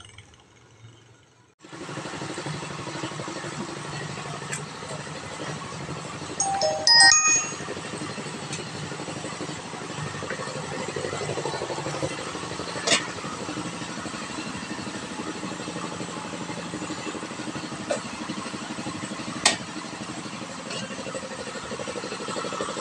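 Palm fruit pressing mill running steadily under test, a mechanical drone with a low rumble that starts about two seconds in. A few sharp knocks sound over it, the loudest about seven seconds in.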